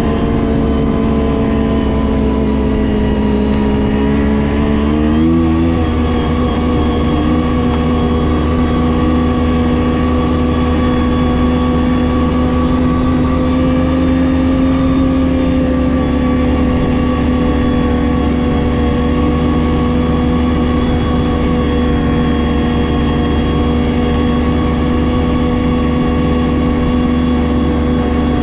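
Ski-Doo GSX 600 H.O. snowmobile's two-stroke twin engine running under way; its pitch climbs about five seconds in as the sled accelerates, then holds nearly steady.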